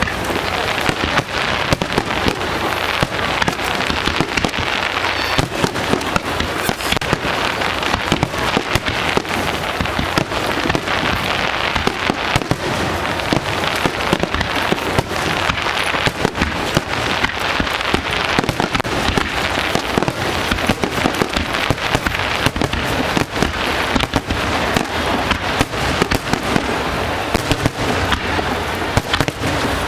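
Aerial fireworks going off in a dense, continuous barrage: many sharp bangs and crackling bursts close together, with no let-up.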